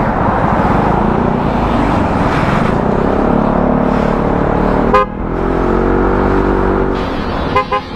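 Road traffic with a motor vehicle engine running steadily, and two short horn toots, one about five seconds in and one near the end.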